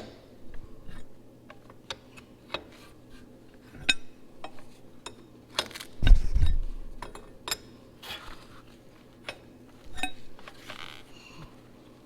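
Metal hand tools and hardware clinking and clanking as they are handled and set down, with a heavier metal clunk about six seconds in.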